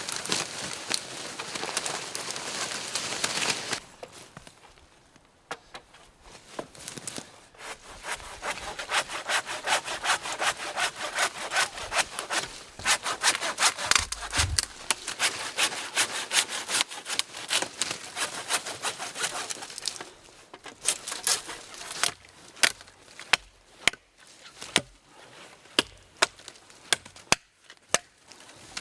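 Hand saw cutting through wood in fast, steady back-and-forth strokes, after a short pause near the start. Toward the end the strokes give way to separate sharp knocks on wood, about one a second.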